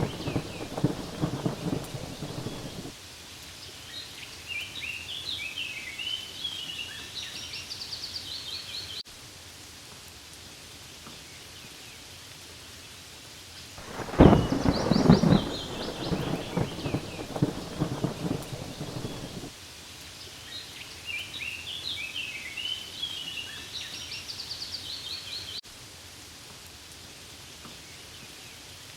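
Steady rain falling on leaves, with thunder rumbling twice: one roll fading out about three seconds in, and another starting suddenly about halfway and rumbling for some five seconds. Short high chirping comes twice between the rolls of thunder.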